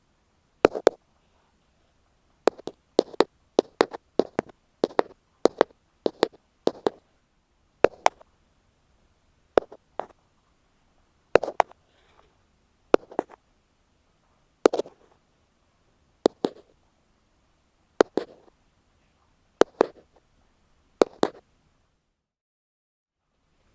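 Ear pick tapping directly on an earphone microphone: sharp, close-up taps, many in quick doubles. They come rapidly at first, then about every second and a half, and stop shortly before the end.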